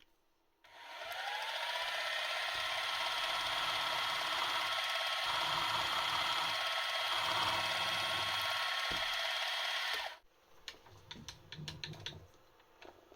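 A drill spinning up with a rising whine, running steadily for about nine seconds while drilling a mounting hole in the plate, then cutting off suddenly; a few light clicks follow.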